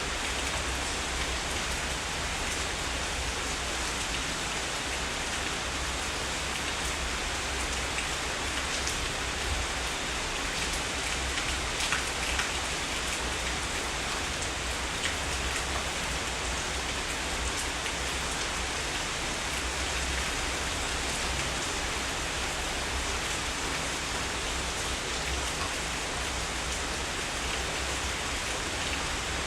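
Steady heavy rain falling, an even hiss with scattered louder drops and a continuous low rumble beneath.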